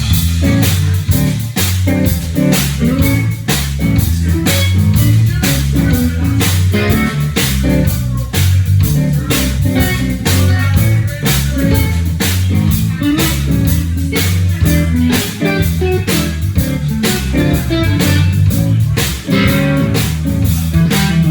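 Live blues-rock band playing an instrumental intro: guitar and bass guitar over a drum kit keeping a steady beat.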